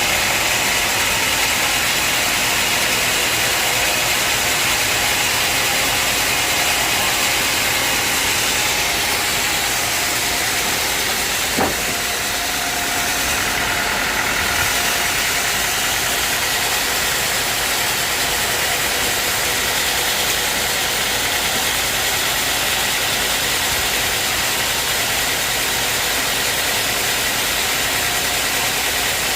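Sawmill machinery running steadily with a constant mechanical whine and hum, and a single sharp knock about twelve seconds in.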